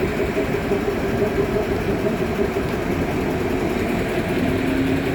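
Locomotive engine running steadily: a continuous low rumble with a steady hum, a second, lower hum joining about four seconds in.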